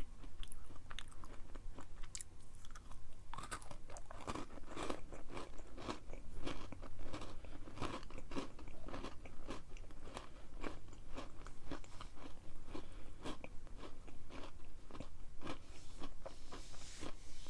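Close-miked chewing of a crunchy oat granola cup: a steady run of irregular crunches as it is chewed.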